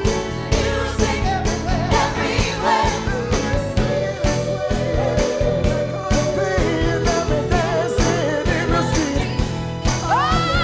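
A live band with a steady drum beat plays a Motown number while several voices sing together. About ten seconds in, one singer's voice slides up into a high held note with vibrato.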